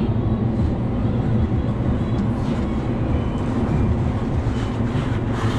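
Light-rail train car running, a steady low rumble of the car in motion heard from inside, with some light crinkling of a large paper poster being handled.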